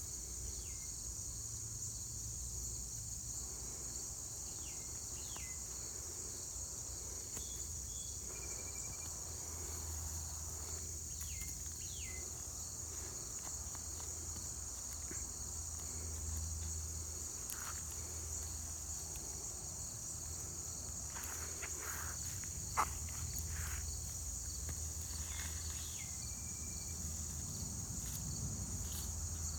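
Steady high-pitched insect chorus of crickets. A few short downward chirps sound over it, and there are soft rustles and one sharp tap from hands digging in the soil.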